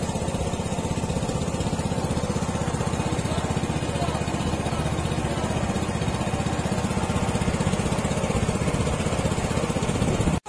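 Small passenger boat's motor running steadily on the lake, a fast even throb. It breaks off abruptly right at the end.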